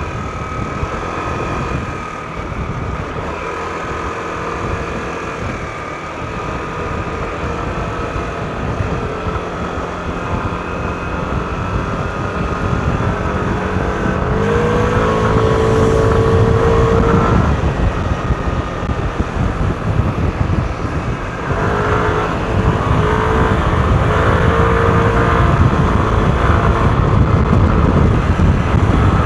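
Yamaha NMAX scooter's single-cylinder engine running while riding, picking up speed in two rising surges, one about halfway through and one near the three-quarter mark, and growing louder overall.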